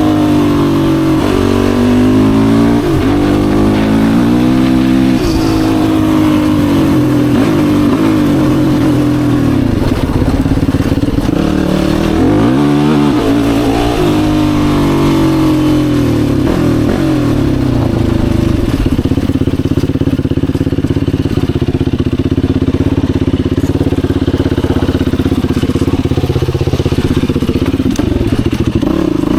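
Yamaha YFZ450R sport quad's single-cylinder four-stroke engine under way, its pitch rising and falling repeatedly in the first half. A little before halfway it drops low and climbs again, then it holds a steady pitch to the end.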